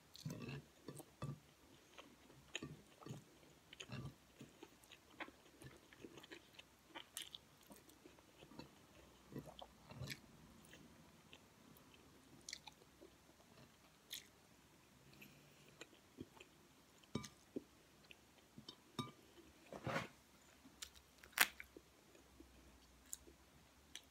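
Close-up chewing and mouth smacking of a person eating kare-kare stew and rice by hand: a steady run of short, soft, wet clicks. A single sharper click near the end.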